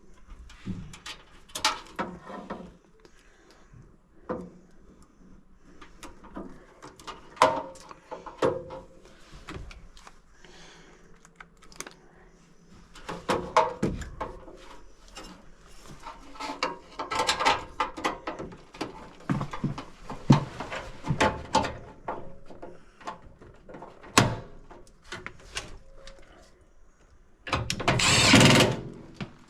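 Scattered clicks, knocks and rattles of tools and metal parts being handled, with a louder rasping burst lasting about a second near the end.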